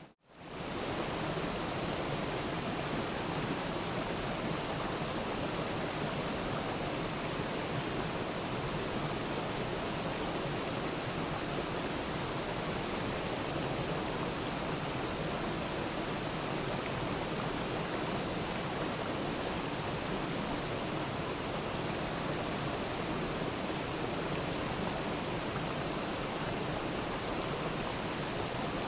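Waterfall, water rushing in a steady even roar with no change. It drops out for a split second at the very start, then comes straight back.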